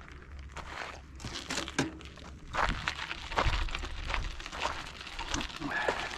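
Footsteps crunching on dry, gravelly ground, an uneven step every half second to a second, with some rustling.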